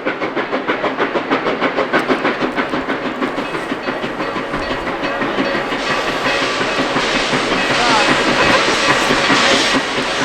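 A train running past, with a fast, even rhythmic beat of about four a second; from about halfway through, a hiss grows louder over the beat.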